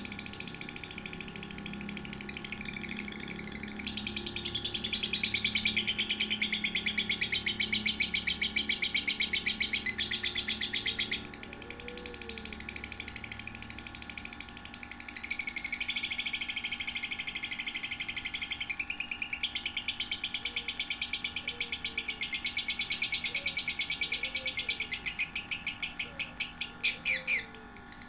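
Young lovebird singing in long, very rapid trills: two long bursts with a few seconds of quieter chirping between them. The second burst breaks into a few separate notes and stops abruptly near the end.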